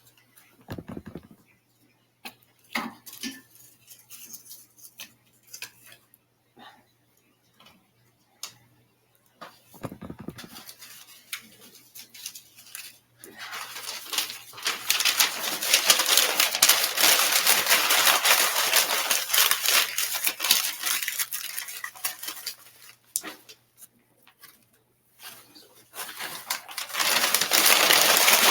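Wood stove with scattered clicks, knocks and metallic clinks, then a dense, loud crackle from about halfway through that dies down briefly and comes back near the end.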